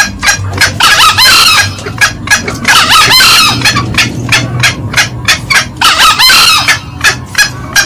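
Green junglefowl calls: three short, hoarse crows from a male, about one, three and six seconds in, over a fast, steady run of sharp cackling notes at about four or five a second. These are lure calls for drawing in wild junglefowl.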